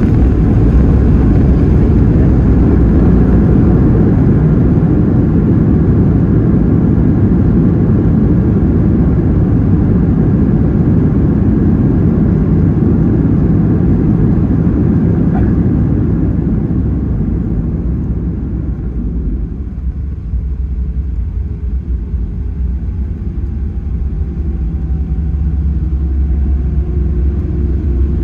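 Cabin noise of a Boeing 737-800 rolling on the ground after landing: a loud, steady low rumble that eases off about two-thirds of the way through. The engines' idle hum remains, with a faint tone slowly rising near the end.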